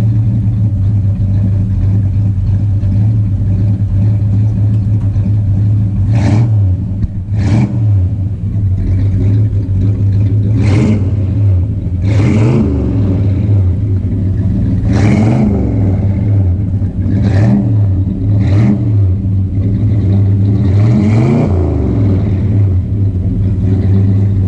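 Car engine idling steadily while the car is eased into a parking spot, with about eight short throttle blips that rise and fall in pitch through the middle and later part.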